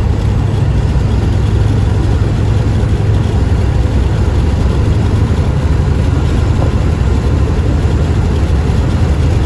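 Semi truck's diesel engine and road noise heard inside the cab while driving on the freeway: a steady, loud low rumble.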